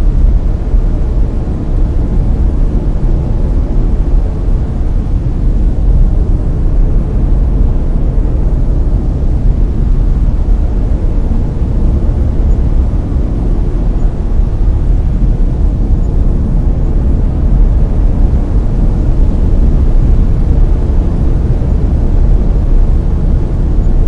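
Layered brown noise: a steady, deep, even rumble-like hiss, loud and unchanging, with most of its weight in the low end and little treble.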